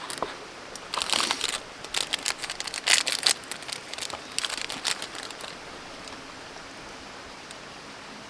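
Irregular crinkling and rustling, a quick run of sharp crackles and clicks that stops about five and a half seconds in, leaving a steady faint hiss.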